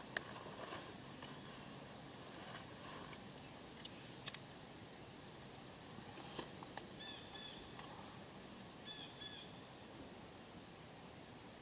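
Quiet open-air ambience with a few faint sharp clicks, the clearest about four seconds in. Two groups of short, high bird chirps come in the later part.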